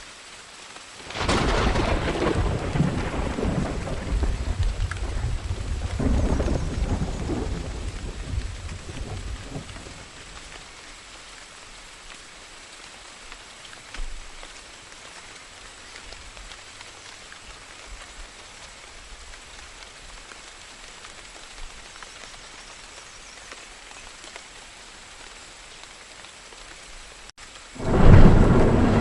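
Thunderstorm: steady rain with a long roll of thunder starting about a second in and fading away over several seconds, and a second thunderclap near the end.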